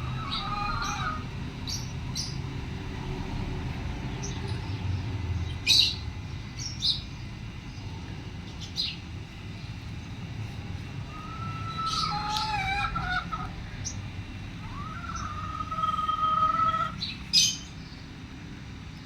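Birds calling: a few short, sharp chirps, and three longer held whistled calls, one near the start and two in the second half, over a steady low background rumble.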